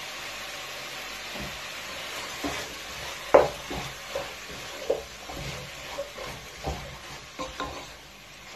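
Chicken pieces sizzling as they fry in oil in a metal pot, with ginger-garlic paste just added, while a wooden spoon stirs them and knocks against the pot every second or so. The loudest knock comes about three and a half seconds in.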